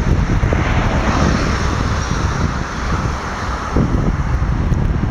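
Jet aircraft engine noise swelling and fading at an airport runway, with heavy wind buffeting the microphone.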